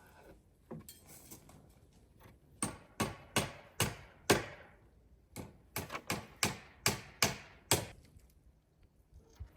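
A series of sharp knocks, about a dozen in two runs of five and seven, roughly two or three a second.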